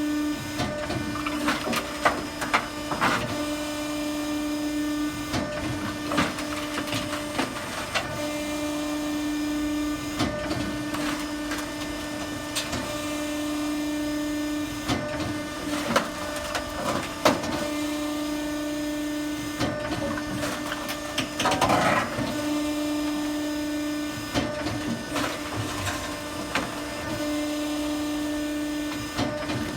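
Automatic firewood processor working logs into split firewood: a steady hum from its hydraulic drive that drops out briefly every few seconds, with irregular cracks and knocks of wood being cut and split and pieces falling.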